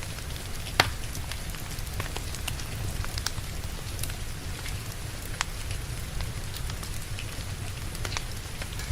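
Steady rain with a wood fire crackling: a low, even rumble under scattered sharp pops and ticks, with one louder pop about a second in.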